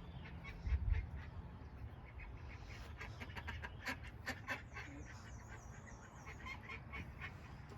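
Ducks quacking in a run of short calls, with a brief low thump about a second in.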